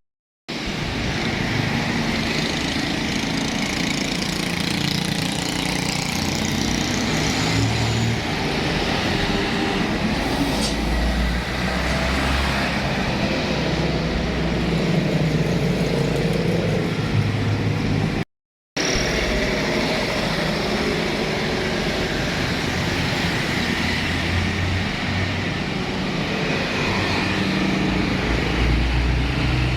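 Road traffic with heavy trucks passing, diesel engines running steadily under a continuous road noise. The sound drops out completely twice, briefly: near the start and about two-thirds of the way through.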